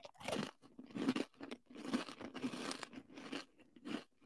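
A person biting and chewing a Kodiak Cakes crunchy peanut butter granola bar close to the microphone, a run of irregular crisp crunches about two a second.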